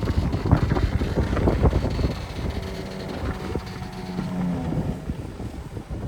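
Heavy earthmoving machinery running: a diesel engine's low rumble with irregular clanks and knocks, busiest in the first two seconds.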